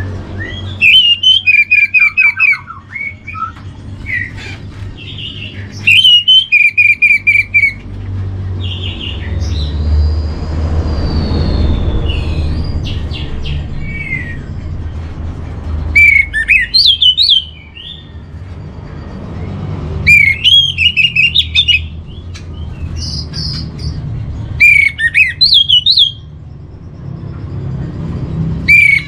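Orange-headed thrush singing loud phrases of rapid, repeated whistled notes, about six bursts with a longer pause in the middle, over a low steady hum.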